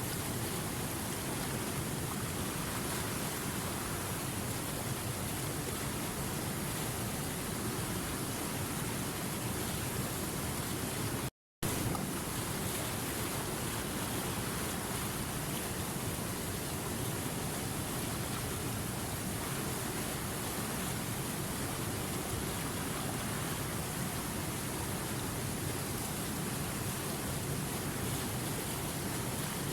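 Steady rush of river water flowing over rapids, an even, unbroken hiss. It cuts out completely for a split second about eleven seconds in, then resumes.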